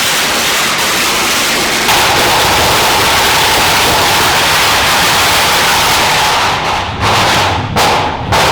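Firecrackers going off in the street in a dense, continuous crackle, turning into separate sharp bangs near the end.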